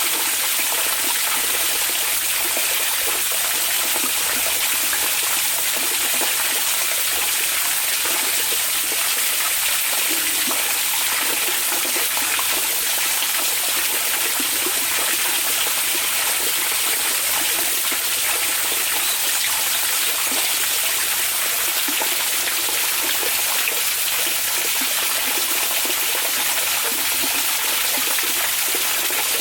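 Onsen (hot spring) water running, a steady, unbroken rush of flowing water.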